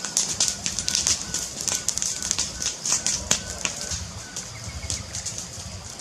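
Wood fire crackling and popping in a fireplace, with many irregular sharp snaps over a low, steady rumble.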